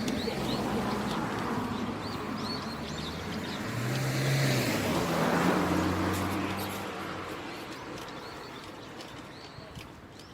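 A car passing by, its engine and tyre noise swelling to a peak about halfway through and then fading, the engine note dropping in pitch as it goes past. Small birds chirp throughout.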